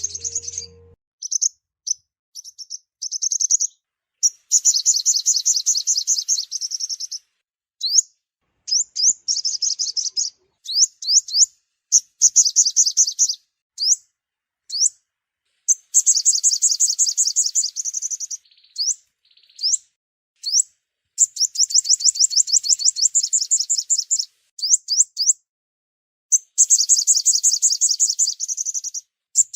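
Sunbird song: high, rapid trills of repeated thin notes in phrases a few seconds long, broken by single sharp down-slurred chips and short pauses. It is a recorded lure call of the kind played to draw sunbirds in for trapping.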